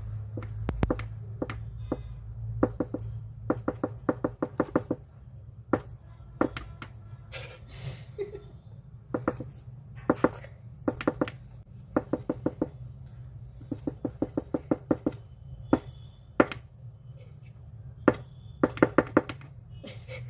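A cockatiel tapping hard on a box with its beak, in quick runs of sharp knocks with short pauses between; the uploader takes it for the bird tapping in anger.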